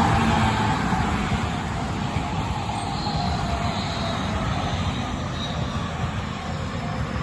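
Tobu Tojo Line electric train passing on the rails, loudest at the start and slowly fading as it moves away.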